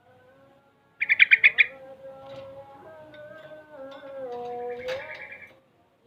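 Yellow-vented bulbul (trucukan) singing: about a second in, a loud, rapid run of about eight high chattering notes, then a string of lower whistled notes that step up and down in pitch.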